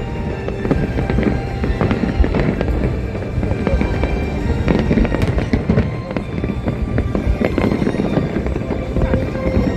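Fireworks display going off continuously: a dense run of crackling and popping bursts with low rumbling booms underneath, and music playing alongside.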